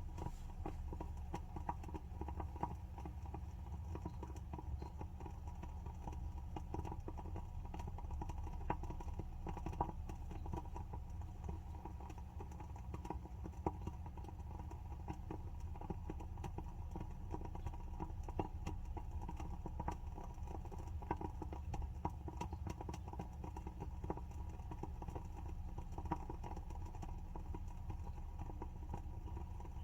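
WoodWick candle's wooden wick crackling as it burns: a dense, irregular run of small pops and clicks, over a steady low hum.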